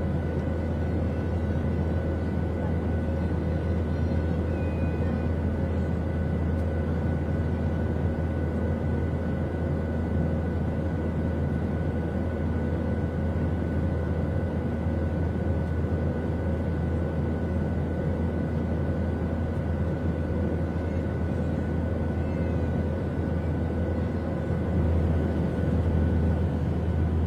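Steady low drone of an airliner cabin in flight: engine and air-system noise with a few faint steady whining tones above it.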